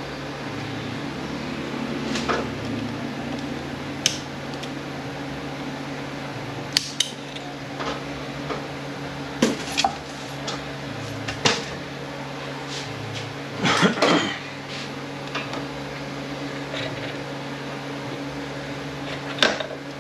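Scattered metal clinks and clacks of hand tools and steel parts as a snap ring and internal parts are taken out of an Aisin Warner A340F automatic transmission, with a longer rattle of parts a little past halfway. A steady low hum runs underneath.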